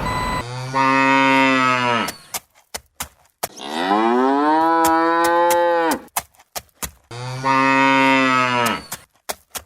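A cow mooing three times, each moo long and drawn out, with a series of sharp clicks in the gaps between them. At the very start a vehicle's reversing beeper cuts off.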